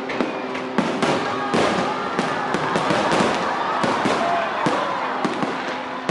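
Aerial fireworks bursting in quick succession: a dense string of sharp bangs and crackles, thickest in the middle stretch.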